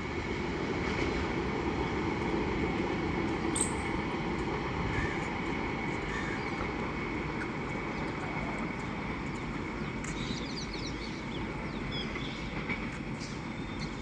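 Superfast express train running past, a steady rumble of wheels on rails with a thin, steady high tone over it.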